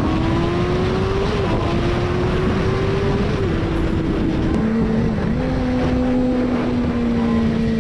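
Motor vehicle engine running under way beneath heavy wind and road noise. Its note climbs slowly and drops back in steps a few times, with a larger drop about four and a half seconds in.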